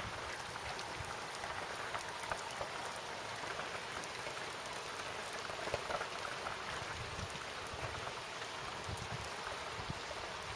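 Teeming rain falling: a steady hiss dotted with the short ticks of individual drops.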